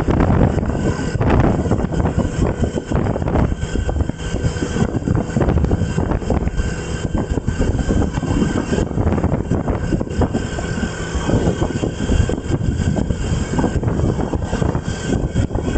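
Wind buffeting the microphone while on the move, with a steady rumble of travel noise underneath.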